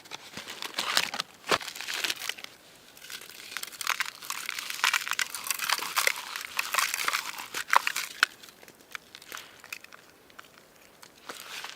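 Crinkling and crunching of granola bar wrappers as the bars are opened and crushed by hand for a crumble topping, in irregular runs with quieter gaps.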